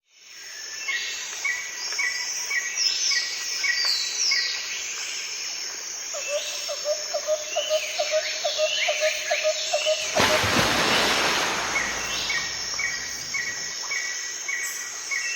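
Forest ambience: birds calling, with short repeated chirps and falling whistles, over a steady high insect hum. A lower pulsing call repeats about three times a second for a few seconds midway. About ten seconds in, a loud rushing noise swells for a couple of seconds.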